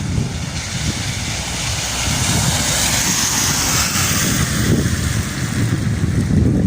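Gusty storm wind buffeting the microphone with a heavy rumble, and a louder rushing hiss that swells for a few seconds in the middle.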